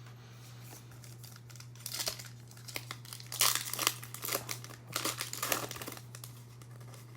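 Foil wrapper of a Prizm basketball card pack crinkling and tearing as it is opened by hand, in a run of sharp crackles that starts about two seconds in and is loudest around the middle.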